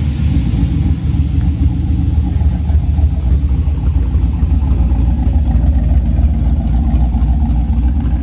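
Classic car's engine running at low speed close by, a steady deep rumble as the car rolls in.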